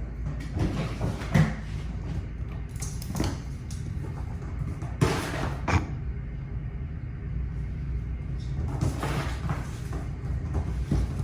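Kittens scampering and playing, paws pattering with scattered bumps, scrapes and knocks; the sharpest knocks come about a second and a half in and around five seconds in.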